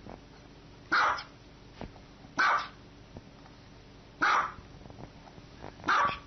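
Small white dog barking: four single barks, evenly spaced about a second and a half to two seconds apart.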